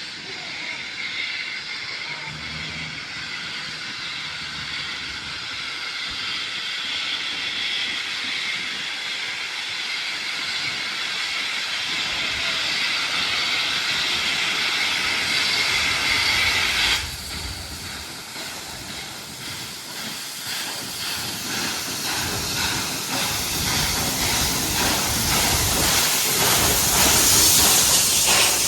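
Steam locomotive 5917, a NSW 59 class 2-8-2, hissing loudly with a ringing, whistling edge to the steam. About 17 seconds in the hiss drops off suddenly. Rhythmic exhaust beats then build up and grow louder, mixed with steam hiss.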